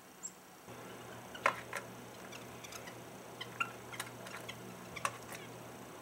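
Small birds at a plastic feeder: a series of sharp taps and clicks from beaks and feet on the feeder, the loudest about a second and a half in, with a few short calls around the middle.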